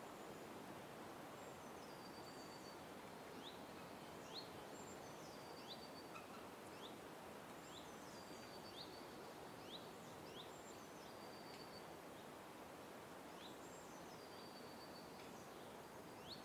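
Faint bird calls over a steady background hiss: many short, quick upward chirps, with a few falling whistled notes now and then.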